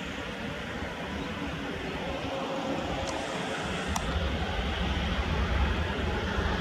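Airbus A320neo jet engines, a steady roar growing gradually louder as the airliner comes closer, with a deeper rumble joining about four seconds in. A single sharp click is heard at about the same moment.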